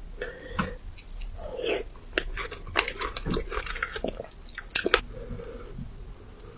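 A person biting and chewing crunchy food close to the microphone, with irregular sharp crunches, the loudest about two, three and five seconds in.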